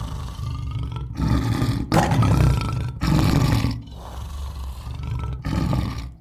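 Lion roaring: a run of about six rough, low roars, each about a second long, with short breaks between them.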